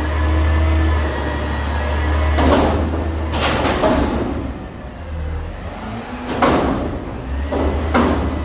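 A vehicle engine running steadily with a low hum, broken by about five short rushing bursts of noise, about half a second to a second apart at first and then further apart.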